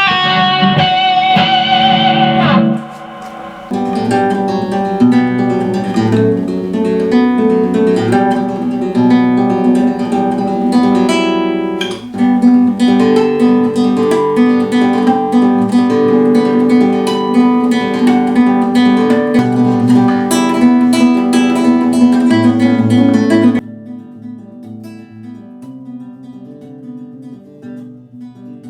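Guitar music: plucked and strummed guitar playing a busy melodic passage. A held note slides down in pitch about two seconds in, and about 24 s in the playing drops abruptly to a quieter guitar part.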